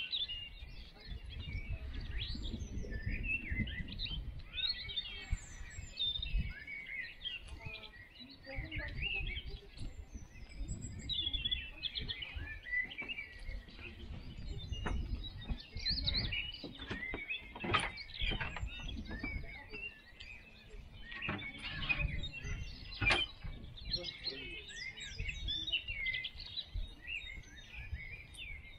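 Several small birds chirping and calling over one another, with a few sharper clicks midway, over a low rumble.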